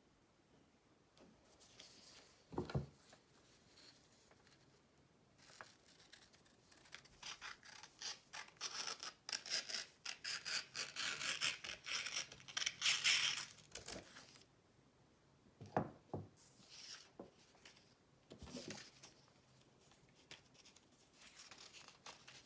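A sheet of paper being folded and creased by hand into a square. Runs of quick rubbing and scraping strokes are densest from about five to fourteen seconds in, and a few handling thumps come before and after.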